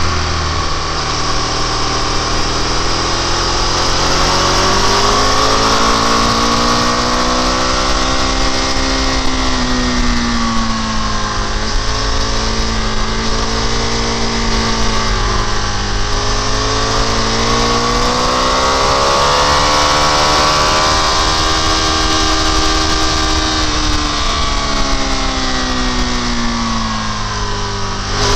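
Motorcycle engine under way, its pitch swelling up and easing down several times as the rider opens and rolls off the throttle, over a steady rushing noise.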